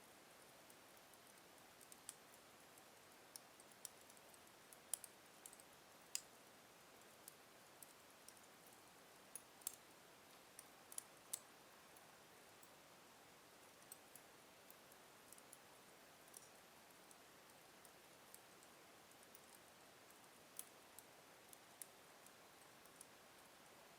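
Wood fire in a fireplace crackling softly: scattered sharp pops and ticks at irregular intervals over a faint hiss.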